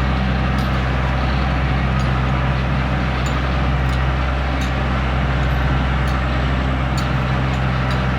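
Heavy diesel engine running at a steady speed, with no revving, and a few faint light ticks over it.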